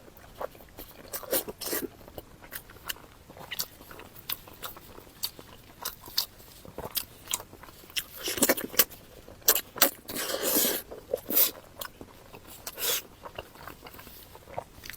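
Close-miked eating sounds of soft pig brain being chewed: many short wet clicks and smacks, with two longer, louder wet mouth noises about eight and ten seconds in.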